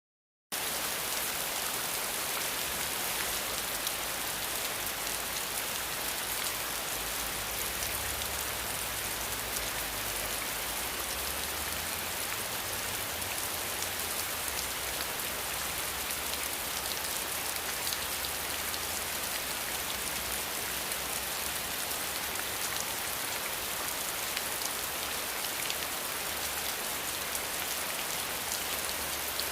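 Steady rain falling, an even hiss of drops that starts abruptly about half a second in and holds at a constant level.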